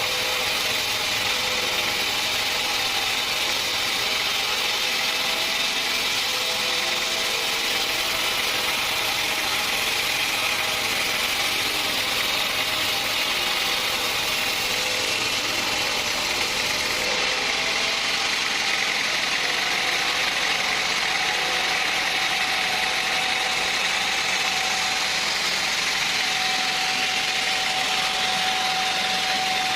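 Sawmill machinery running steadily, an unbroken mechanical noise; its tone changes slightly about seventeen seconds in.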